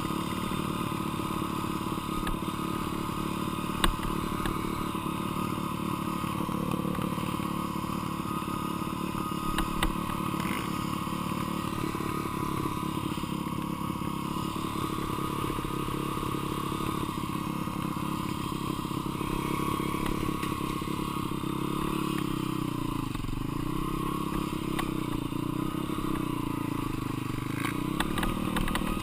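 Dirt bike engine running under way, its note dropping and rising several times near the end as the throttle is rolled off and on. A few sharp knocks come through, one about four seconds in.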